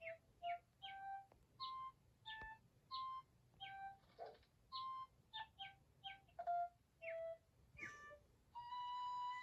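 A string of short, whistle-like cartoon bird tweets, each a brief musical note, many starting with a quick downward slide, about two a second and at changing pitches. Near the end a long, steady whistle-like note begins.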